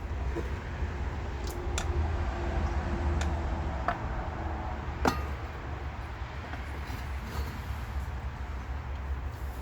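Metal parts and tools clinking sharply a handful of times during work on a lawn tractor transmission, with the loudest clink about five seconds in, over a steady low rumble.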